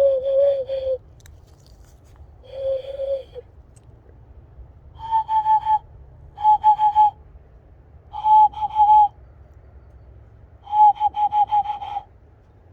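Hand whistle blown through cupped hands in six short, warbling, owl-like phrases, the first two lower-pitched and the last four higher.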